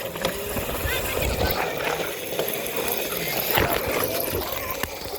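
Wind rushing over a hand-held phone's microphone, with scattered clicks and knocks from the phone being handled.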